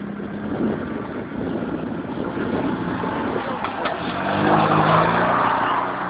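Tractor engine running; it gets louder and busier about four seconds in, then eases off near the end.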